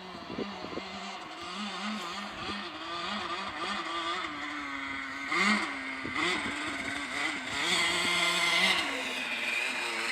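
2000 Honda CR125R two-stroke dirt bike engine being ridden, its pitch rising and falling with the throttle, with sharp revs about halfway through and a louder stretch near the end. The silencer has no packing left in it, and the engine is not warmed up or properly tuned, with an uncleaned carburettor.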